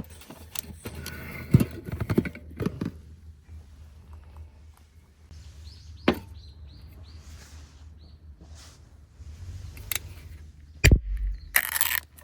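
Irregular knocks and clunks, with a heavy low thump followed by a brief hiss near the end.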